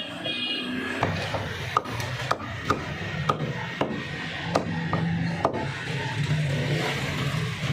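Butcher's cleaver chopping chicken on a wooden block: about ten sharp chops, roughly two a second, stopping near the end.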